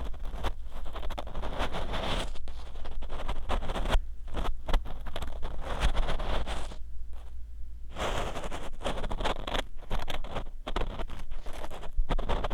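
Ear pick scraping and rubbing inside the ear of a 3Dio binaural dummy-head microphone, in a run of short, close, scratchy strokes that pause briefly about four seconds in and again around seven seconds in.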